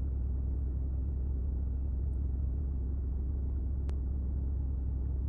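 BMW 340i's B58 turbocharged 3.0-litre inline-six idling at a standstill, heard from inside the cabin as a steady low rumble. A single faint click about four seconds in.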